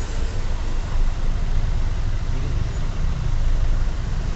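Steady low rumble of road traffic, with vehicle engines running nearby.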